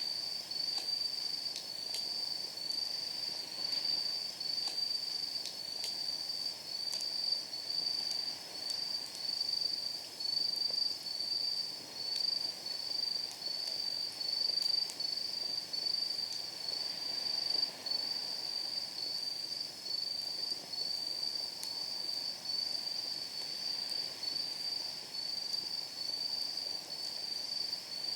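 A night insect singing a high, steady song in even pulses, about one and a half a second, over the soft hiss of a wood fire burning in a steel fire pit. A few sharp crackles and pops of the firewood break through now and then.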